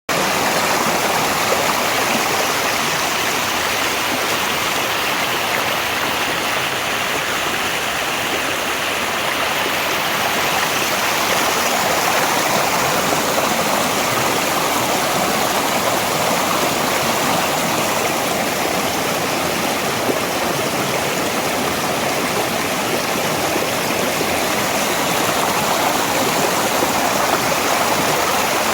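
Mountain valley stream, water flowing in a steady, unbroken rush.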